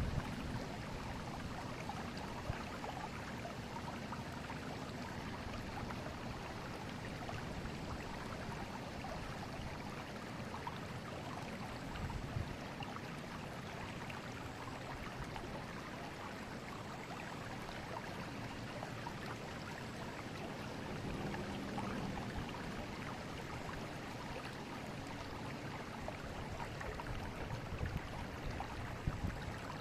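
River water flowing steadily: a constant, even rushing, with a few brief low thumps, the clearest about twelve seconds in.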